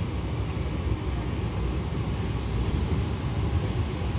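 Steady low rumble of a train, heard from on board or close by, with no sudden knocks or changes.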